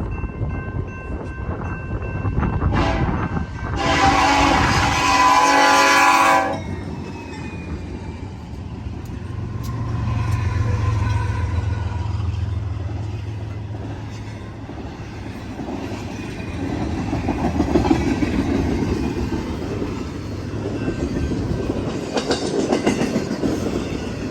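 BNSF eastbound intermodal freight train passing. The locomotive horn sounds once, about four seconds in, for a couple of seconds. Then the diesel locomotives rumble past and the intermodal cars roll by with steady rail clatter.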